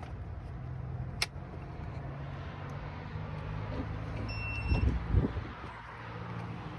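Electric scooter ride with a steady low hum and road noise. There is a sharp click about a second in, a short high beep around the middle, and a few heavy low thumps just after it.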